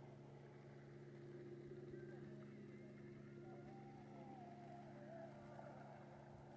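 Faint, steady motor hum at an unchanging pitch, with faint distant voices coming in about halfway through.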